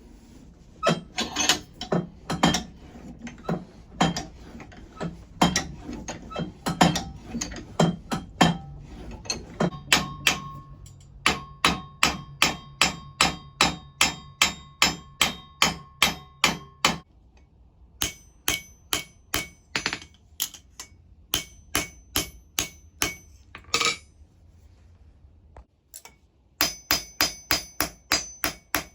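Hand hammer striking hot steel on an anvil, forging the blade: steady blows about two a second with a metallic ring, in several runs with short pauses between them.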